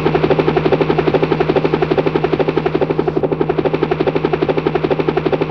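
Helicopter rotor sound: a rapid, even beating of the blades over a steady low hum, used to bring a toy helicopter to life.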